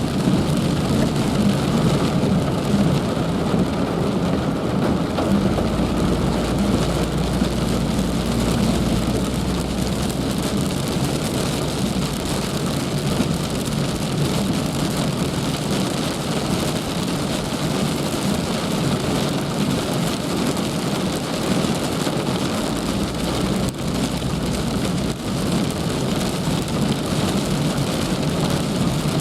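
Heavy rain falling steadily, with a low rumble swelling twice underneath.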